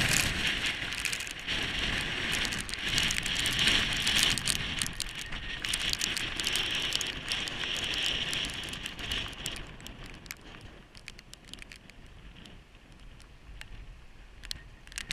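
Wind-driven rain and spray striking the camera as a dense hiss full of sharp ticks, with wind buffeting the microphone in a coastal winter storm. It is loudest for the first nine seconds or so, then dies down to a quieter hiss.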